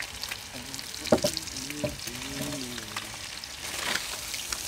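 Food frying in hot oil, a steady sizzle with crackles.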